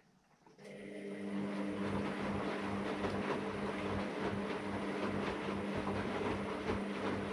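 AEG Lavamat Turbo washer-dryer starting up about half a second in, then running steadily with a hum and an irregular clatter.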